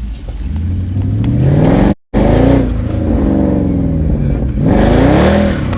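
Mercedes-Benz C63 AMG W204's 6.2-litre V8 accelerating hard, its pitch rising. The sound drops out for a split second about two seconds in, then the engine note falls, climbs again in a second rev near the end and falls away.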